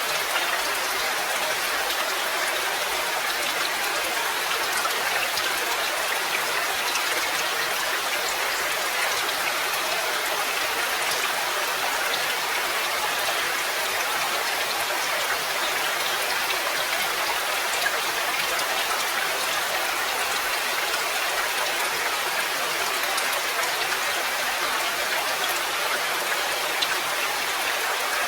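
Steady rain falling: an even hiss with scattered drop ticks, holding the same level throughout.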